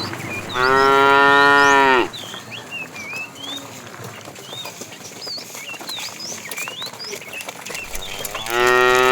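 A cow mooing twice: a long, loud call about half a second in that falls away at its end, and another starting near the end. Small birds chirp faintly between the calls.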